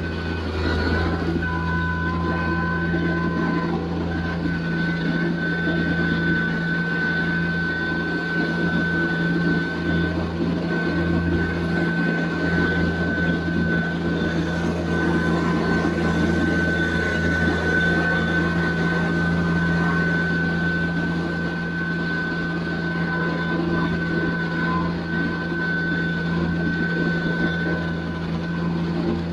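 Compact tractor's diesel engine running steadily under work, with a constant high whine over the engine hum.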